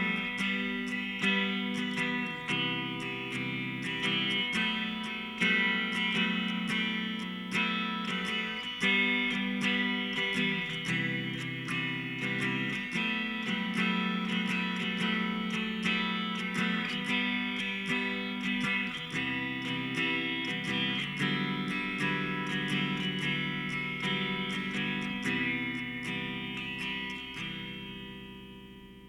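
Music: a guitar piece of evenly paced plucked and strummed notes and chords, fading out near the end.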